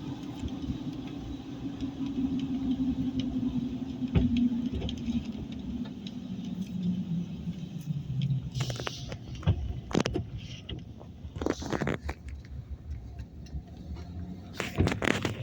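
Car engine and road noise heard from inside a moving vehicle, the engine note falling steadily as it slows, followed by scattered sharp crackles and clicks in the second half.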